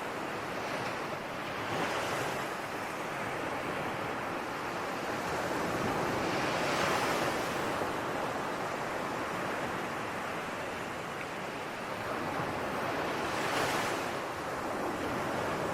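Ocean waves breaking and washing on the shore, a steady surf hiss with three louder swells, about 2, 7 and 13 seconds in.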